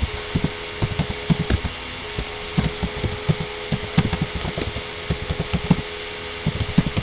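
Computer keyboard keys being typed on: irregular quick taps and clicks as a word is entered, over a steady faint hum.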